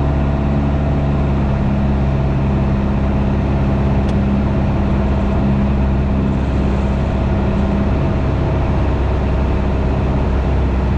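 Piper PA-28 light aircraft's piston engine and propeller droning steadily in the cabin on final approach.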